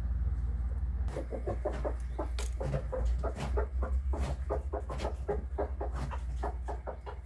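Chickens clucking: a rapid run of short clucks, several a second, starting about a second in, over a steady low rumble.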